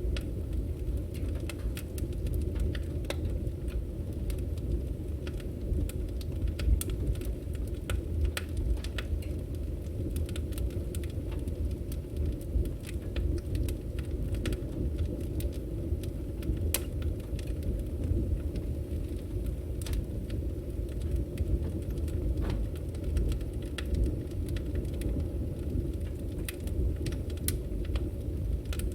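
Wood fire burning: a steady low rumble of the flames with frequent sharp crackles and pops from the burning logs, scattered irregularly throughout.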